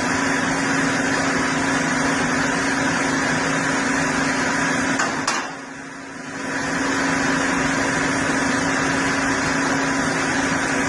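A large machine running steadily with a constant low hum, briefly dropping away about five seconds in after a click, then running on as before.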